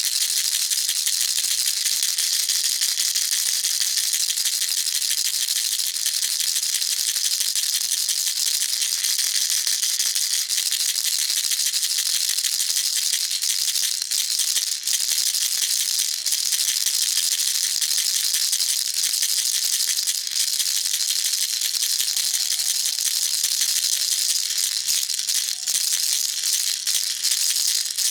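Baby rattle shaken continuously: a dense, steady, high rattling of small beads with no pauses.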